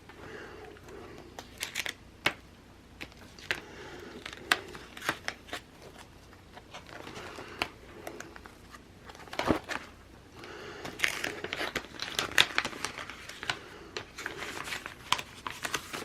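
Sticker sheets and paper being handled: crinkling and rustling with many scattered small clicks and taps, busier in the second half.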